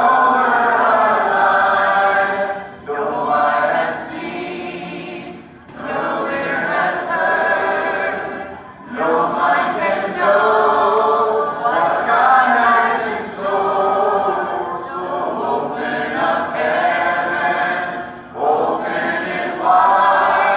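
A cappella choir singing held chords in long phrases, with short breaks between them.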